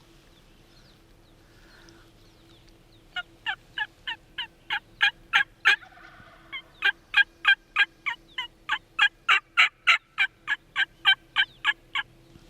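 A long series of turkey yelps, loud and evenly paced at about three notes a second, starting about three seconds in with a short break midway. A faint steady hum runs underneath.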